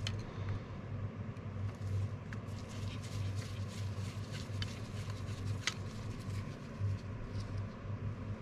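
Light scattered clicks and taps of small tools and metal carburetor parts being handled during disassembly, over a steady low hum.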